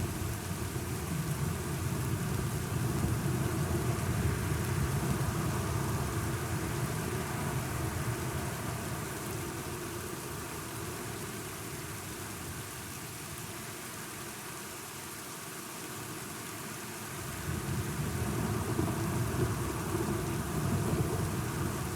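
Steady rain with a low, rolling thunder rumble that eases off around the middle and builds again near the end.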